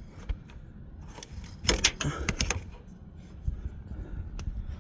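Hand tools and steel parts clinking and knocking while a steering rack is worked into place, with a quick cluster of sharp metallic clicks about two seconds in and one more near the end.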